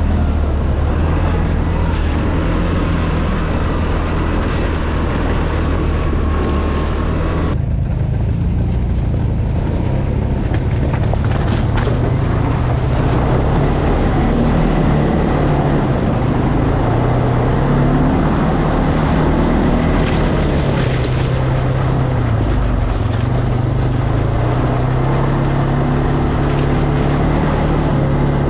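ATV engine running under way, its pitch shifting up and down with the throttle, over a steady rush of wind and terrain noise. The sound changes abruptly about seven and a half seconds in.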